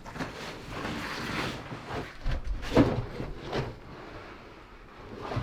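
Irregular scuffing and rustling with a few dull knocks in the middle, from a hiker's shoes, clothing and pack against rock while clambering down into a narrow slot canyon.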